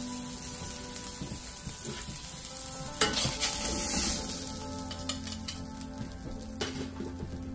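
Smash burger patties frying in a hot cast iron skillet, a steady sizzle. About three seconds in it flares into a sudden louder burst for about a second, then settles back.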